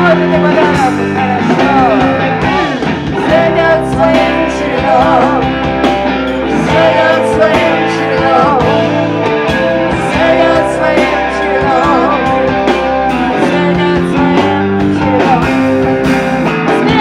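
Live rock band playing a bluesy song, guitar and band backing a singer's vocal line.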